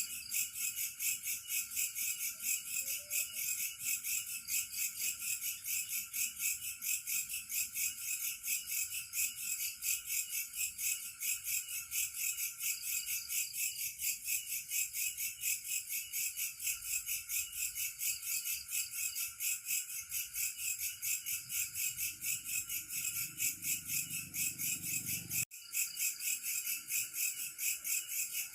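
Chorus of crickets and other insects chirping in a fast, even pulse, over a steady high drone from more insects. It cuts out for an instant about 25 seconds in.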